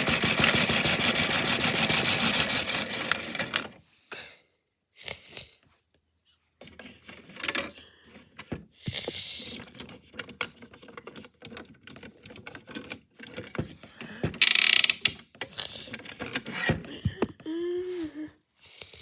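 A big rock rattling and banging rapidly in a washing machine drum, a dense clatter that stops about four seconds in. Scattered clicks, knocks and rubbing follow, with a short burst of noise past the middle.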